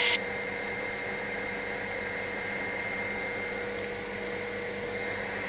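Helicopter in flight heard from inside the cabin: a steady drone with a constant whine.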